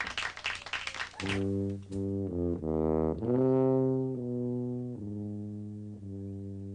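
A brief shout at the start, then a low brass instrument plays a slow musical phrase of about eight held notes that step down and back up in pitch.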